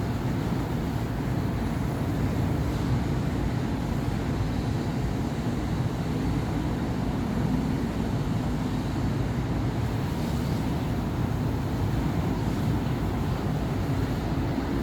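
City street traffic: a steady, continuous rumble of cars and buses passing on a busy avenue.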